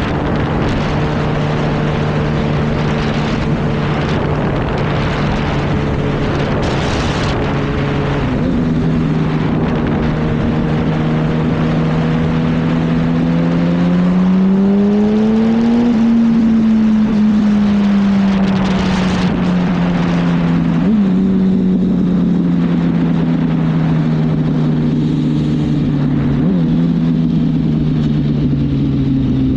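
Motorcycle engine heard from the rider's seat over a steady rush of wind. It cruises at an even pitch, then revs up over a few seconds around the middle and slowly winds back down.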